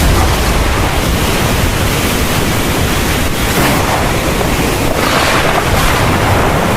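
Heavy rain falling in a thunderstorm, a steady dense hiss with a low rumble underneath, swelling a little around the middle.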